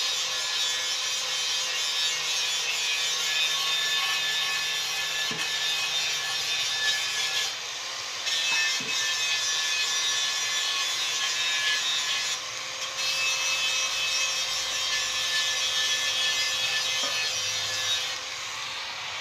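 Continuous abrasive rasping, steady and loud, from a tool working the metal fuel tank, with two brief pauses partway through.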